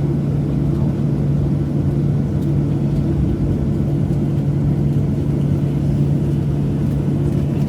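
Steady drone inside the cabin of a Boeing 737-700 on the ground after landing, its CFM56-7B engines idling, with a constant low hum.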